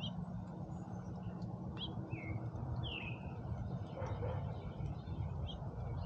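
Small songbirds chirping at a feeder: about half a dozen short calls a second or so apart, one sweeping down in pitch about three seconds in, over a low steady rumble.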